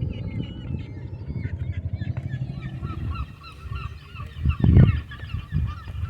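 A flock of birds calling, many short overlapping calls several a second. A low fluttering rumble runs underneath, with a loud low surge about three-quarters of the way through.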